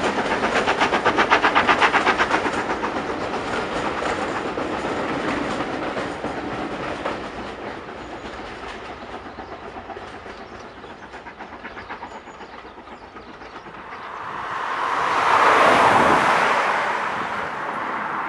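Steam train's coaches rolling past with a rapid clickety-clack of wheels over rail joints, the sound fading away as the train leaves. About three-quarters of the way in, a separate swell of noise rises and falls over a few seconds.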